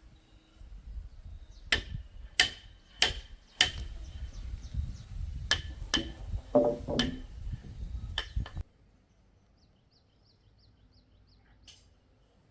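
A series of about eight sharp blows at uneven spacing over a low rumble, as from a hand tool striking during construction work, cutting off abruptly about two-thirds of the way through. Afterwards only quiet background with a short run of faint high chirps.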